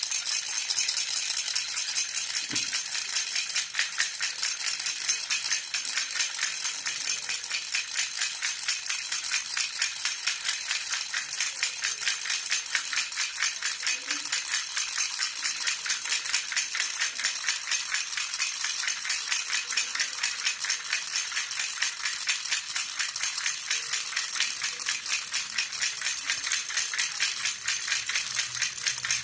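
Silver jhunjhuna, a metal baby rattle, shaken steadily and fast, a continuous bright jingling rattle at an even rhythm.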